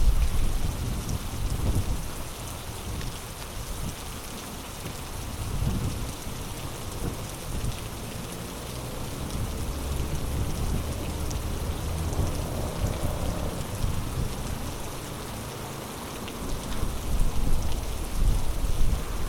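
Heavy rain pouring steadily, with low rumbles of thunder rolling in and out, loudest at the start and again near the end.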